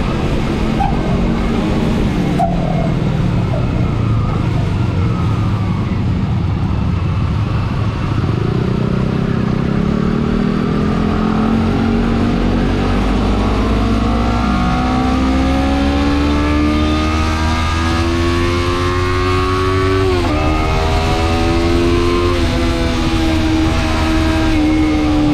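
Motorcycle engine pulling under acceleration while riding, its pitch climbing slowly, dropping at a gear change about twenty seconds in, then climbing again. Under it is a steady rumble of wind noise, damped but not removed by a foam cover over the action camera.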